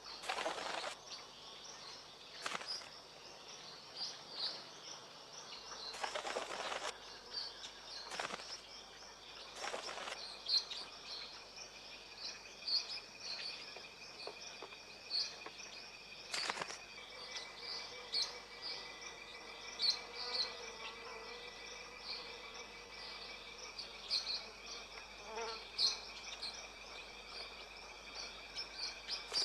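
Tropical forest ambience: a steady high insect drone with frequent short, high bird chirps, and a few brief rustling bursts.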